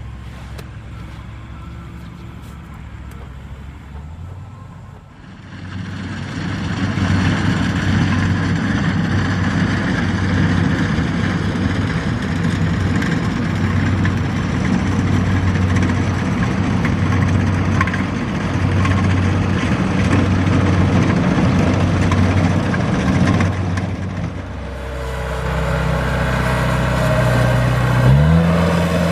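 Diesel engine of farm machinery running: quieter for the first few seconds, then much louder from about five seconds in, easing off a little after about twenty-four seconds, and revving up near the end.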